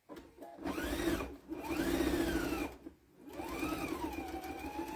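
Sewing machine stitching in three runs, the motor speeding up and slowing down in each. The first two runs are short and the last is longer.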